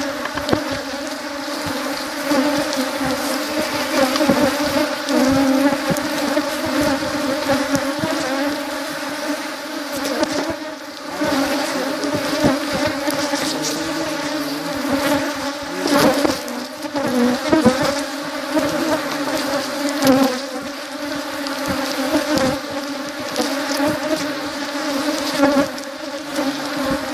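Many honeybees buzzing loudly and continuously: a dense, steady hum with brief louder swells now and then.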